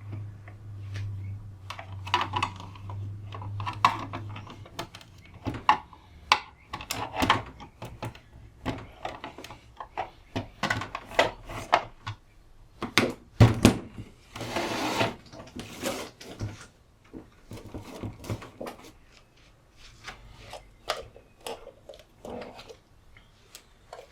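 Handling noises from a UPS battery and its leads after disconnection: an irregular run of clicks and knocks, with a longer scraping rustle about two-thirds of the way through. A low hum fades out about five seconds in.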